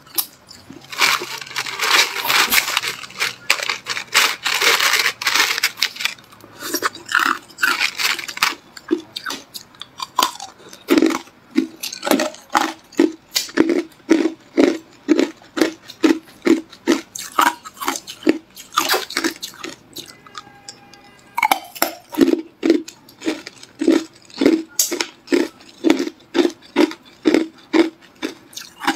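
A person crunching hard clear ice in the mouth. Dense cracking crunches come first, then steady rhythmic chewing at about two strokes a second, with a brief pause about two-thirds of the way through.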